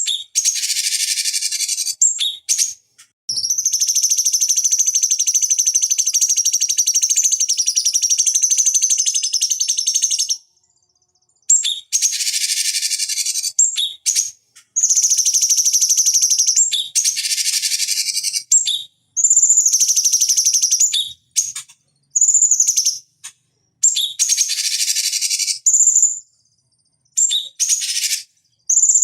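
Cucak cungkok singing: bursts of rapid, high-pitched chattering song with a steady whistled note running through them, separated by short pauses. The longest phrase lasts about seven seconds.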